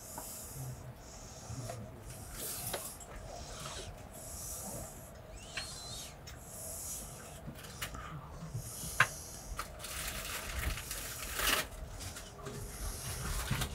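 Cabin noise inside an XPT passenger train as it moves slowly along the platform: a low rumble with hissing that comes and goes, and scattered sharp clicks and knocks, the loudest about nine seconds in.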